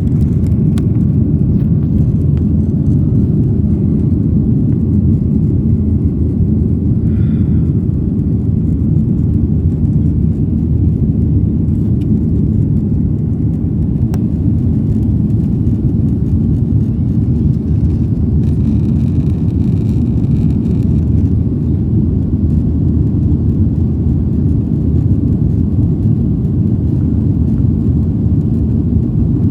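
Steady, loud low rumble of an airliner's engines and airflow heard inside the passenger cabin in flight.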